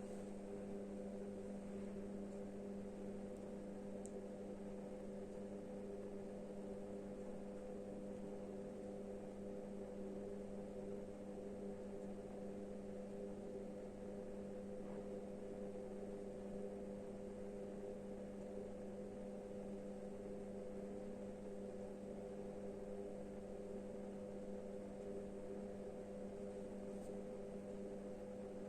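Steady low electrical or mechanical hum: a few fixed tones that hold without change, over faint hiss.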